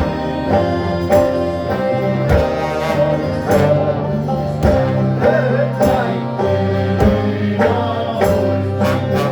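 A band playing a song with a steady beat, bass and pitched instruments.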